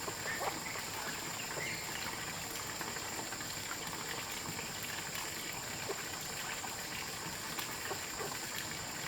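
Steady outdoor ambience: a constant high-pitched hum over an even hiss like trickling water, with scattered faint clicks.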